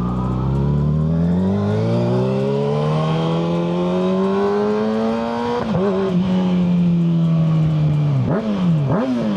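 Kawasaki ZX-6R 636's inline-four through a Yoshimura full exhaust, accelerating. The revs climb steadily for about five seconds, break briefly at a gear change, then hold and sag slightly, with two quick dips in revs near the end.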